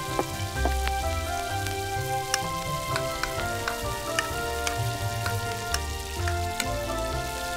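Chopped onion sizzling in hot oil in a tiny iron kadai, with sharp clicks of a small spatula tapping and scraping the pan as it is stirred. Background music with a melody and bass line plays throughout.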